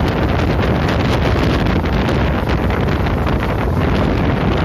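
Wind buffeting the microphone of a camera held out of a moving passenger train, over the train's running rumble on the rails. Loud and steady throughout.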